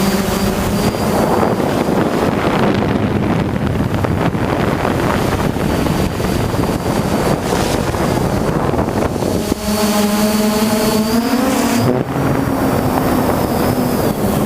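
Hexacopter motors and propellers humming, with a thin high whine, mostly buried under heavy wind noise on the microphone. The hum comes through clearly for a couple of seconds about ten seconds in, rising briefly in pitch before the wind covers it again.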